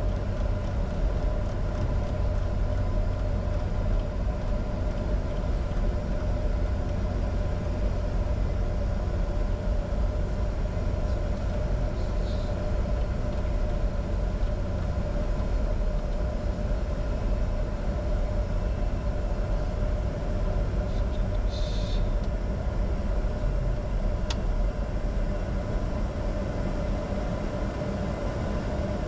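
Steady cockpit noise of a Bombardier Challenger 605 in flight: a deep rumble of its two GE CF34 turbofans and airflow, with a constant hum and a few faint clicks.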